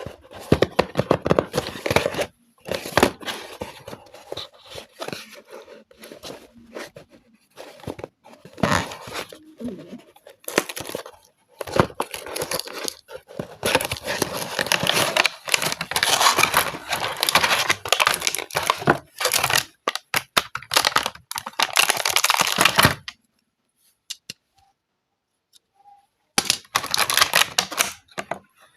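Packaging being torn open and crinkled by hand, in irregular bursts of rustling and tearing with short pauses, falling silent for a few seconds before it starts again near the end.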